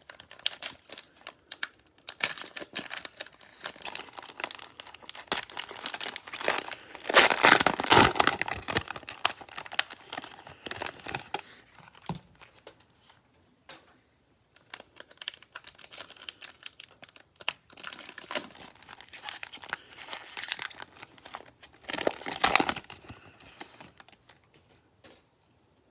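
Crinkly cellophane wrappers of Panini Prizm football cello packs being torn open and crumpled by hand, a steady run of crackling with two louder stretches, about a quarter of the way in and again near the end.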